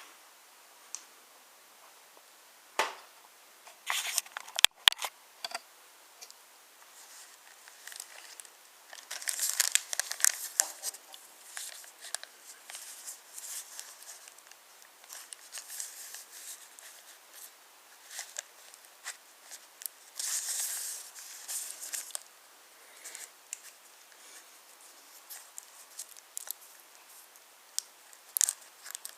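Wooden toy trains and wooden railway track clattering: irregular clicks and rattles of wooden wheels and cars on the wooden rails, with a few sharp knocks in the first few seconds.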